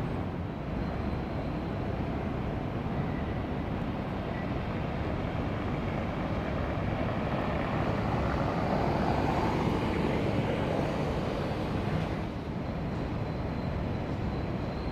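Steady engine rumble with rushing water and wind noise, swelling louder through the middle and easing off about twelve seconds in.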